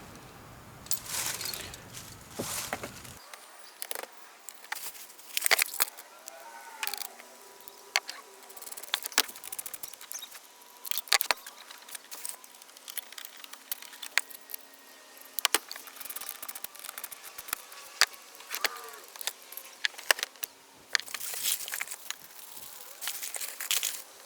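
Hands fitting terminals onto heavy-gauge car battery and amp power cables: scattered clicks and knocks of metal parts and tools, with brief scraping and rustling.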